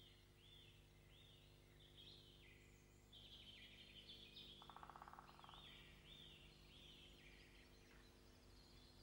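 Faint bird song: short arched chirps repeated about twice a second, with a brief buzzing trill about halfway through, over a steady low hum.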